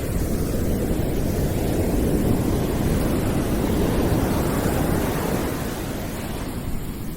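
A rushing, surf-like noise, heaviest in the low end, that swells over the first few seconds and eases off again near the end.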